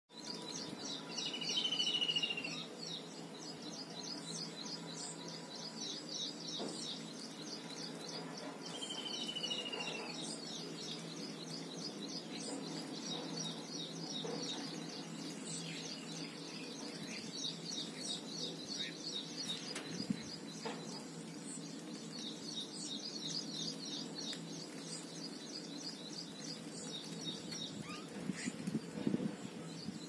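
Small birds calling: a fast stream of high chirps, broken by short pauses, with a clear falling whistle twice, about two seconds in and again near nine seconds.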